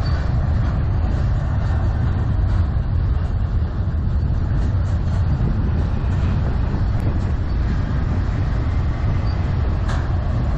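CN intermodal freight train rolling past, a steady heavy rumble with many light clicks from the wheels, under strong wind buffeting the microphone.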